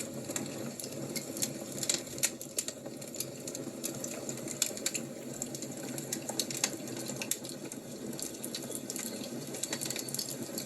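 Wood fire crackling, with many small irregular pops and snaps over a steady low rush.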